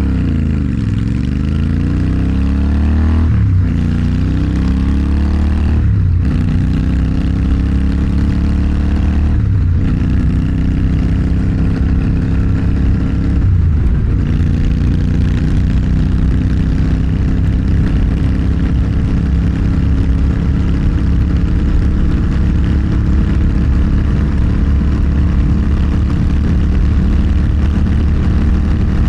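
Motorcycle engine accelerating hard up through the gears: the pitch climbs and drops back at four upshifts in the first half, then settles into a steady cruise.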